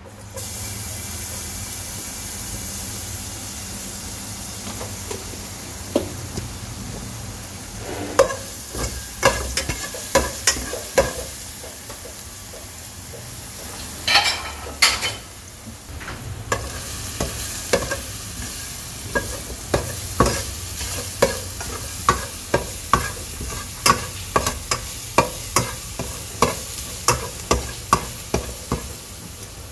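Spice paste sizzling as it fries in hot oil in a non-stick pot, starting with a jump as it hits the pan. From about a third of the way in, a spatula scrapes and taps against the pot while stirring, settling into a steady rhythm of one to two strokes a second near the end.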